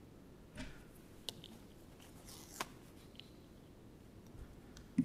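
Quiet room tone with a few faint rustles and small clicks, two sharper ticks about a second and two and a half seconds in.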